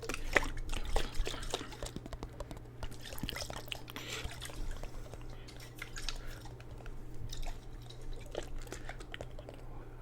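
Water sloshing and dripping in a jar handled close to the microphone, with many irregular small splashes and clicks.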